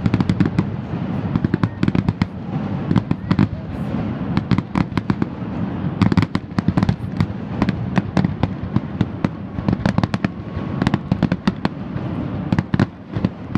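Fireworks display: aerial shells bursting in a rapid barrage, many sharp bangs and crackles following one another over a steady low rumble.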